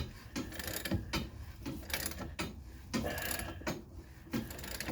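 Hand ratchet wrench clicking in repeated strokes as it tightens a long bolt, drawing a seized shaft out through a suspension control arm bushing.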